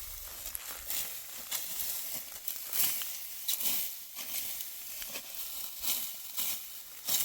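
Sickle cutting through dry wheat stalks: irregular crisp crunching and rustling strokes, about one or two a second.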